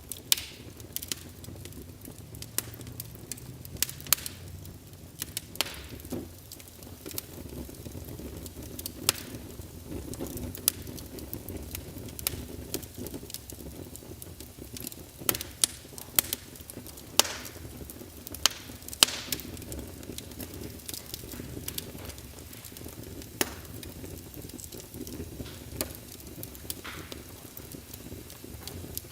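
Wood fire burning in a fireplace: a steady low rumble of flames with irregular sharp crackles and pops, the loudest near the start and in a cluster about two thirds of the way through.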